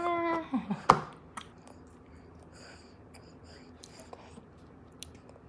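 A baby's drawn-out vowel babble that breaks off about half a second in, followed by a single sharp knock, then a few faint small clicks.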